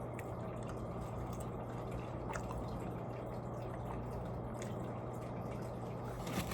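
Steady low background hum with a few faint, sparse wet mouth clicks from quiet eating.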